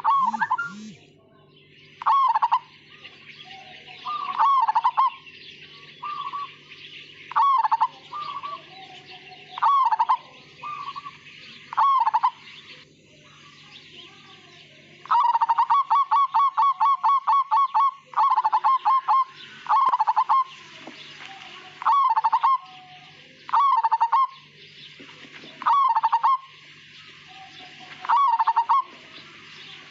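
Zebra dove (perkutut) of the Javanese Majapahit strain cooing: short coo phrases repeated about every two seconds, with a fast run of rapid staccato notes in the middle lasting about three seconds. Steady high twittering behind it.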